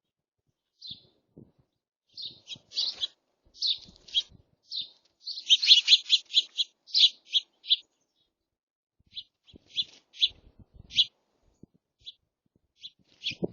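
Small birds chirping at a feeder: short high chirps, one after another, in a quick flurry in the middle, then sparser single chirps.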